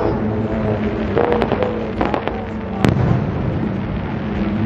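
Aerial fireworks going off: a spatter of sharp crackling pops, then one louder bang about three seconds in, over a steady low hum.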